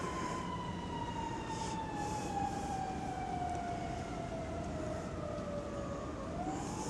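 Siren wailing: one slow, steady tone that falls in pitch over several seconds, bottoms out near the end and starts to rise again.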